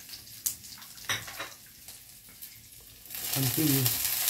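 Oil tempering in a kadai on a gas stove: a faint crackle with a few sharp clicks, then about three seconds in a loud sizzle starts suddenly as chopped vegetables drop into the hot oil.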